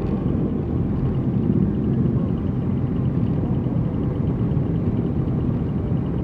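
Riding noise from a motorcycle under way: a steady low rumble of engine and wind, with no let-up or change in pace.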